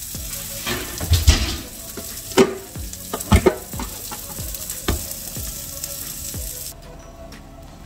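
Food sizzling in a hot pan, with a utensil knocking against the pan several times; the sizzling cuts off suddenly near the end.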